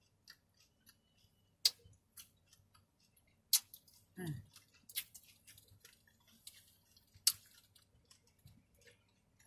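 A person chewing a taco close to the microphone: scattered sharp, wet mouth clicks and smacks, with a short hum falling in pitch about four seconds in.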